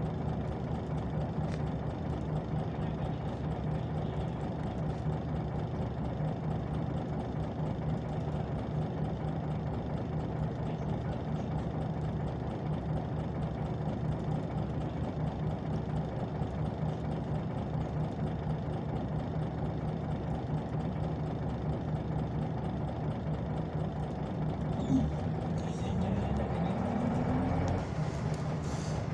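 Scania OmniLink CL94UB city bus engine idling with an even, pulsing low hum. Near the end there is a short sharp click, then the engine note rises for a second or two as the revs come up.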